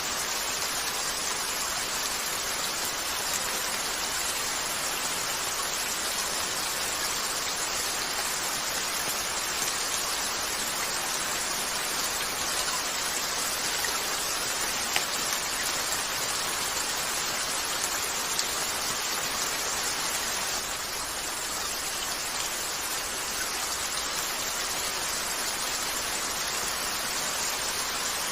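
Steady, dense rain falling on a window, with a few isolated sharp crackles from a fireplace.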